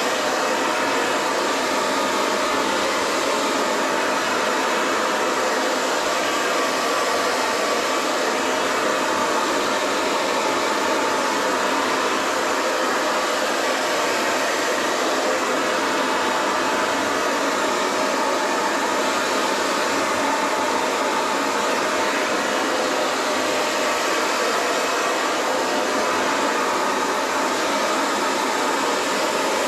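Hair dryer running steadily, an even rushing noise that holds one level throughout.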